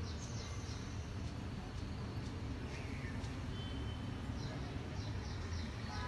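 Small birds chirping in short high notes: a cluster right at the start and a quick run of about five repeated chirps about two thirds in. A steady low background rumble runs underneath.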